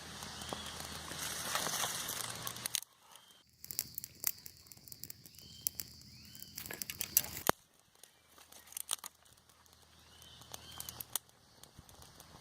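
Small campfire of dry twigs crackling, with irregular sharp pops and snaps; the sound drops off abruptly twice.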